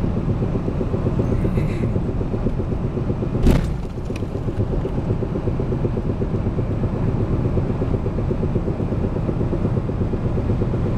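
Four-wheel-drive pickup truck driving, with a steady low rumble and knocking from worn CV joints that are due for replacement. One sharp thump about three and a half seconds in.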